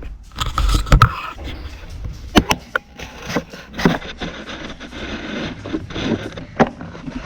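Handling noise from a camera being set on a tripod: scattered sharp clicks and knocks with scraping and rubbing in between.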